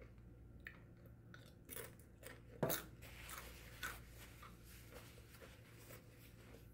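Chewing crunchy tortilla chips: scattered soft crunches, with one sharper crunch about two and a half seconds in.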